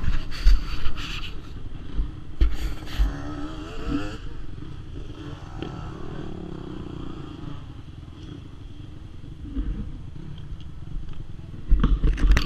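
Loud scraping and buffeting on the microphone for the first few seconds and again near the end. In between, a motocross bike's engine revs up and falls away.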